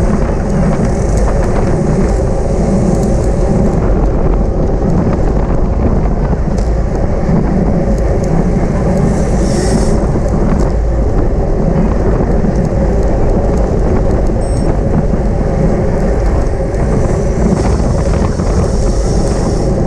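Wind buffeting the microphone of a camera riding on a racing bicycle at speed: a loud, steady rush with a rumbling low end.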